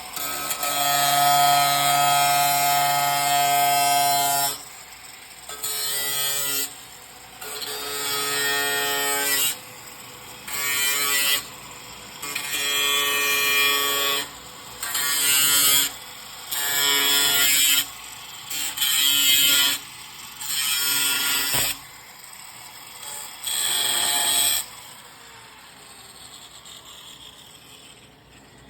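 A power tool run in about ten short bursts, one to four seconds each with brief pauses between, each burst a steady pitched whine with a hiss; the bursts stop a few seconds before the end.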